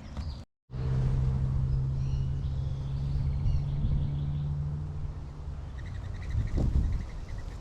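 Outdoor ambience with a steady, low engine hum, likely a motor vehicle, that fades out past the middle, over a low rumble. Birds chirp at several points. The sound cuts out completely for a moment about half a second in.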